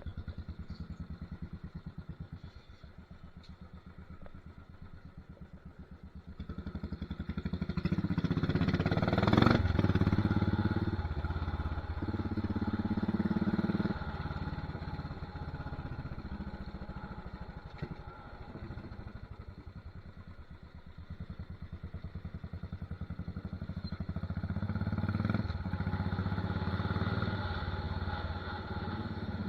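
Royal Enfield Desert Storm's single-cylinder engine running through a loud torpedo/megaphone aftermarket silencer, its pulsing exhaust note rising as it revs up from about six seconds in, with a sharp crack near ten seconds. It eases back, then builds again in the last several seconds.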